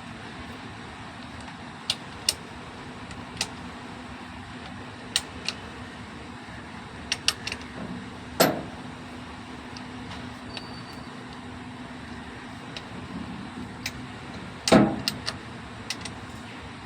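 Metal tools and engine parts clicking and tapping during work on a diesel engine's rocker gear, with two louder metallic knocks that ring briefly, about eight and fifteen seconds in. A steady low hum runs underneath.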